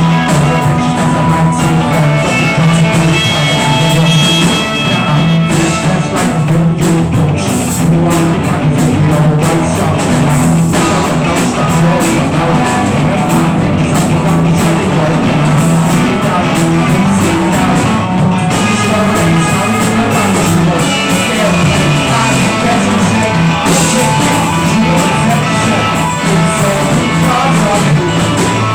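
Rock band playing an improvised jam, loud and continuous.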